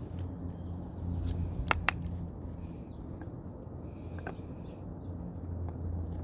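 Plastic sprinkler fittings being handled and threaded into a buried pipe, with two sharp clicks close together about two seconds in and a few fainter ticks, over a steady low hum and faint bird chirps.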